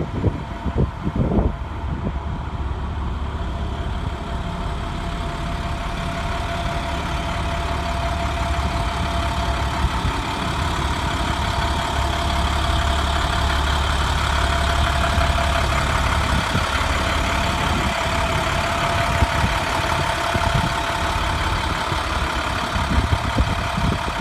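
A motor running steadily with a low hum and a few steady whining tones, growing somewhat louder about halfway through.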